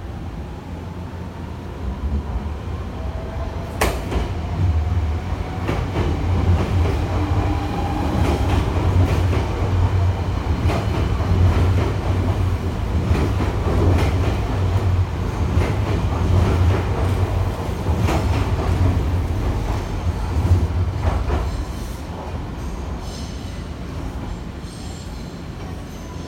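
Nankai electric train pulling out: the motor whine rises in pitch as it gathers speed, then a long run of wheel clacks over rail joints and points. The sound eases off about three-quarters of the way through.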